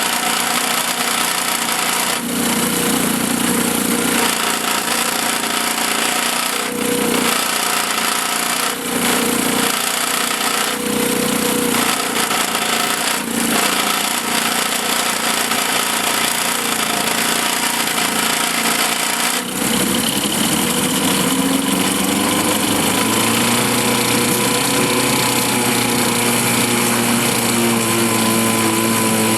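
1954 Johnson CD-10 5.5 hp two-stroke outboard motor running in a test barrel, with a few brief dips in its note. About two-thirds of the way in the running note changes, its pitch climbing slightly and then holding steady.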